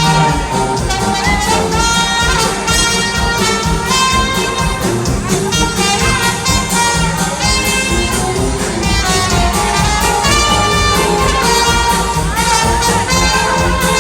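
Brass band playing polka music, trumpets leading over a steady beat.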